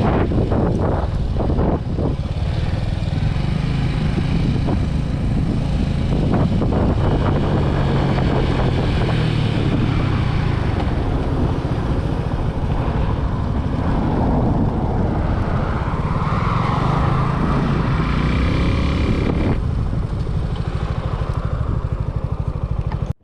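Motorcycle engine running while riding, with wind and road noise; the engine note rises and falls in the second half.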